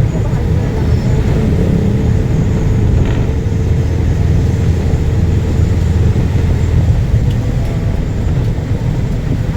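Steady low rumble of a moving road vehicle, with engine and road noise and a faint steady hum above it.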